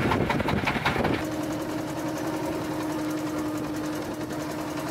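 Small fishing boat's engine running steadily under way, a constant droning hum with a fast even beat. About the first second is covered by a louder rush of wind and water noise.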